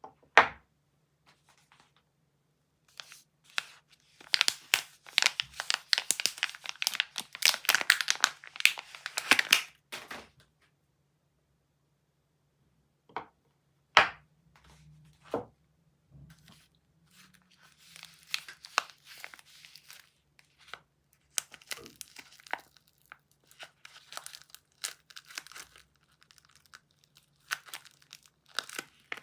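Soap packaging being torn open and crinkled by hand. There is a dense stretch of crinkling early on, a single sharp click about halfway through, then softer, scattered crinkles.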